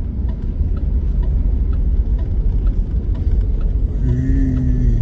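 Car cabin road noise while driving: a steady low rumble of engine and tyres. A brief held tone is heard about four seconds in.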